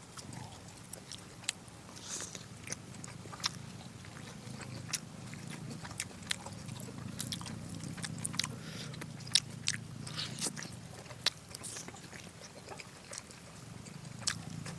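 Close-miked chewing and biting of braised pork: irregular sharp mouth clicks and smacks, over a low steady hum.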